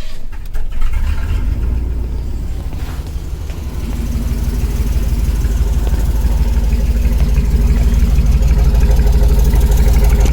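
Chevrolet pickup's engine idling through a newly fitted exhaust with an axle dump, a steady low rumble that grows louder over the first few seconds. A few clicks are heard at the start.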